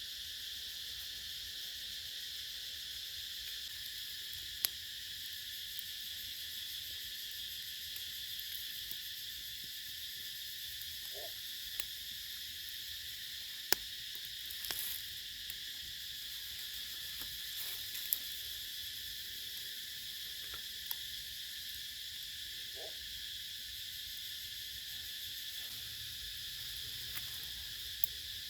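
Steady, high insect chorus, with a few sharp clicks and a couple of faint short low calls.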